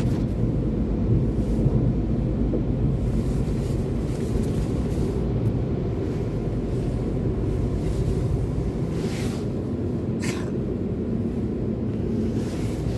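Steady low rumble of a car heard from inside its cabin as it drives, with a few short whooshes near the end.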